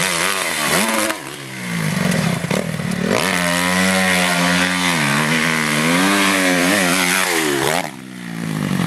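Honda CRF250R motocross bike's single-cylinder four-stroke engine running hard on the throttle, its pitch rising and falling as the rider works the throttle, with brief drops off the throttle about a second in and near the end before picking up again.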